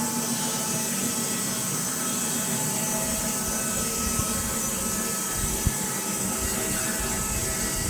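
Woodland Mills HM126 bandsaw mill running: its three-phase electric motor and band blade make a steady whine and hiss, with a low rumble building from about three seconds in.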